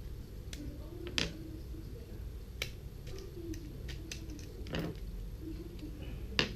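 Scattered light clicks and taps of small plastic parts being handled while an RC car is taken apart, over a steady low hum.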